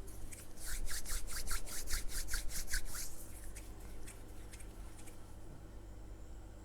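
Tarot cards shuffled by hand: a quick run of papery swishes, about six a second, for a few seconds, trailing off into a few fainter taps.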